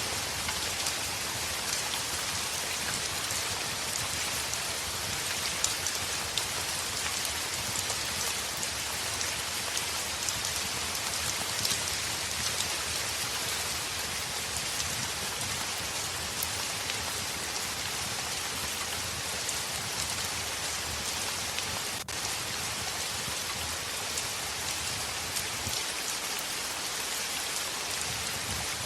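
Heavy rain falling on window glass: a steady, dense hiss with many fine drop taps.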